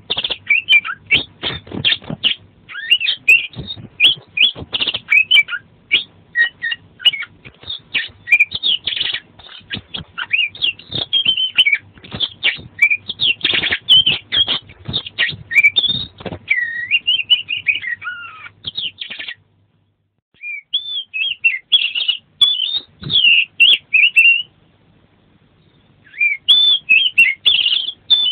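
Oriental magpie-robin (kacer) singing a fast, varied song of whistled and chirping notes that swoop up and down, with two short pauses about two-thirds of the way through.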